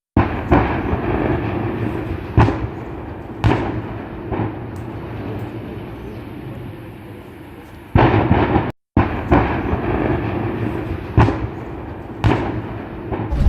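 A series of sharp bangs, several seconds apart, from LPG gas cylinders on a burning truck bursting, over a steady noisy background.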